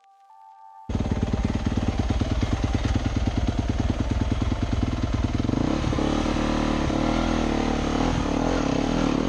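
Dirt bike engine running with a fast pulsing beat, cutting in suddenly about a second in; from about halfway the engine note rises and varies as the throttle changes.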